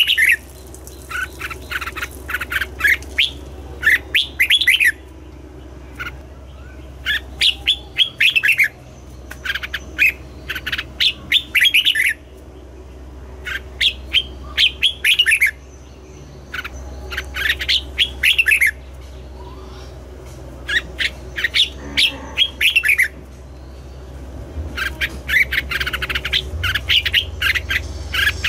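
Red-whiskered bulbul singing: short, loud phrases of quick, sliding whistled notes, repeated again and again with brief pauses between them.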